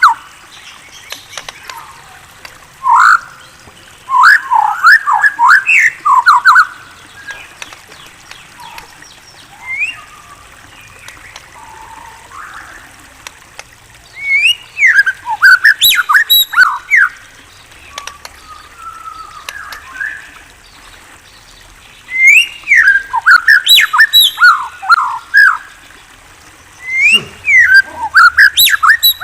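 A murai songbird singing in loud bursts of quick, sweeping whistled notes, several rapid phrases at a time with quieter pauses of a few seconds between the bursts.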